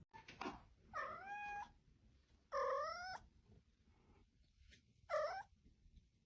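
A domestic cat meowing three times, each call a drawn-out pitched cry with a bending pitch; the third, just after five seconds in, is shorter than the other two.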